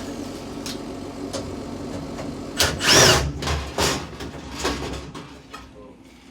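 A furnace motor runs with a steady hum. From about two and a half seconds in, several loud clanks and scrapes sound, the loudest around the middle, and the hum dies down near the end.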